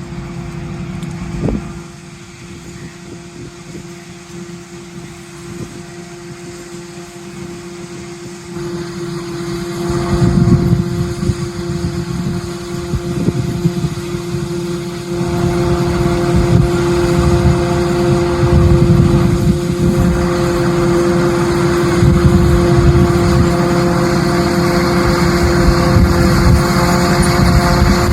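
Tractor and silage-cutting machinery running with a steady engine hum and a whine held on one pitch. It grows louder about ten seconds in and again about fifteen seconds in, then stays loud.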